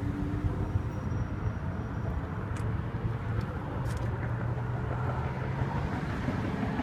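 Steady low rumble with a faint hum and a few faint clicks.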